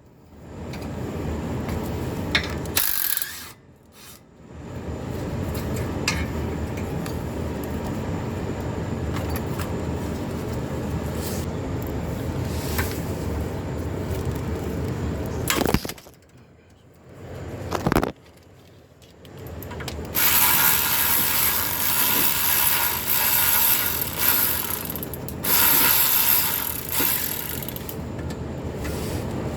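Ratchet wrench working in long runs broken by two short pauses; the runs after the second pause are harsher and higher-pitched.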